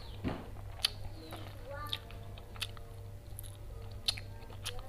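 A person chewing a mouthful of fried instant noodles and rice close to the microphone, with scattered wet mouth clicks and smacks. A steady low hum runs underneath.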